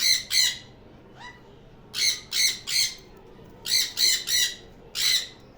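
Pet parrot squawking in short calls: two at the start, then two quick runs of three, and one more near the end.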